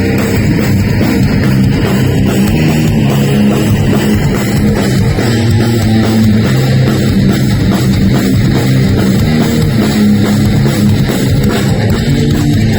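Heavy metal band playing live: electric guitars over bass and drum kit, loud and steady.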